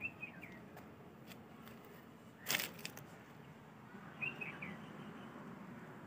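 A small bird chirping: a quick run of three or four high notes at the start, and again about four seconds in. A brief, loud rustling burst comes about halfway between them.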